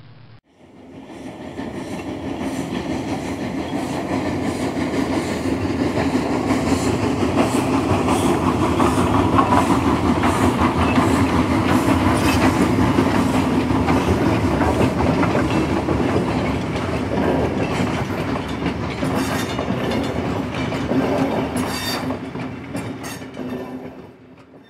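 A train rolling past, its wheels clattering over the rail joints. The rumble builds up over the first few seconds and fades away near the end.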